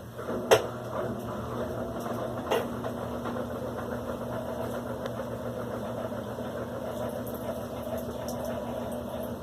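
Electrolux LAC16 top-load washing machine running on its silent cycle: a sharp click about half a second in and another near 2.5 s, then a steady motor hum.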